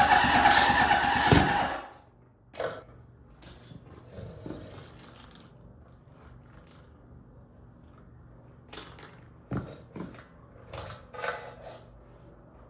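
A loud rush of air for about two seconds as a Honda CB750 Four's oil tank is pressurized through a plastic bag tied to it, forcing oil into the dry oil pump to prime it. A few short knocks and plastic rustles follow.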